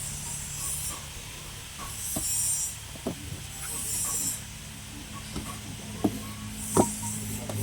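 A 350 kg livestock feed mixer running: a steady low machine hum, with a hissing swish that comes round about every two seconds and a few sharp knocks.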